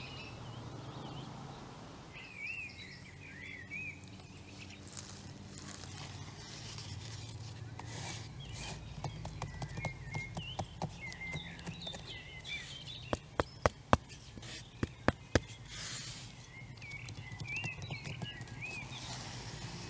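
Small birds chirping and warbling in short phrases over a steady low hum, with a run of sharp clicks and snaps in the middle, the loudest few coming close together near the end of that run.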